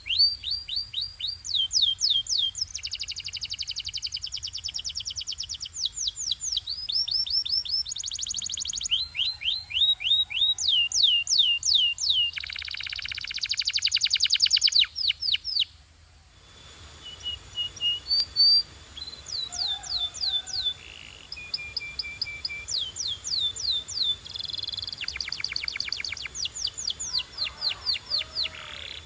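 Domestic canary singing: quick runs of repeated falling notes and trills, each phrase held for a second or two before changing to a new pitch, with a brief pause about halfway through.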